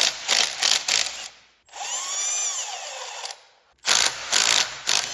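Power tool run in short bursts: several quick bursts at the start and again near the end, with a longer run in the middle whose whine rises and then falls in pitch.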